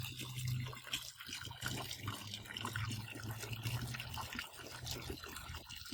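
Garden waterfall splashing and trickling over rocks, a steady rush of falling water.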